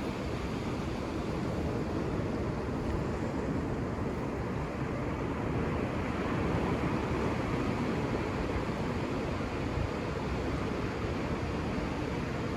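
Ocean surf: a steady, even wash of breaking waves, swelling slightly in the middle.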